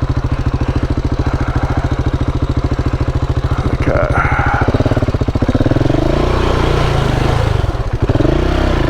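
KTM 690 Enduro's single-cylinder engine running under way, with a steady firing pulse. From about six seconds in, the revs rise and fall with the throttle.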